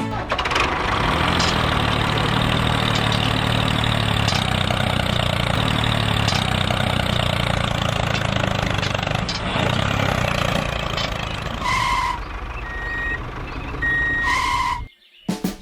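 Small engine running steadily with a low, even chug, then a few short electronic beeps near the end.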